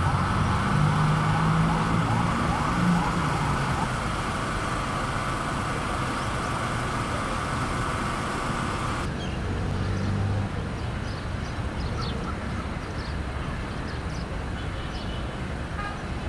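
Road traffic: vehicle engines running and a steady din of passing traffic. The sound changes abruptly about nine seconds in, as at a cut to another shot, and is a little quieter after.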